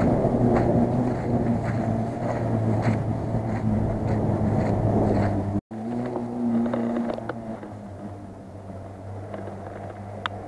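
Off-road vehicle engine running steadily, with light clicks over it. The sound cuts out for an instant a little past halfway and comes back quieter.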